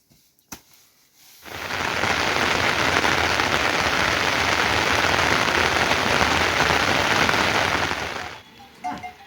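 Heavy rain falling, a loud steady hiss that starts abruptly about a second and a half in and stops abruptly near the end.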